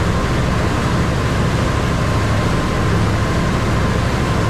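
Steady engine drone of a small cruise ferry under way, a low hum with a thin, steady whine above it.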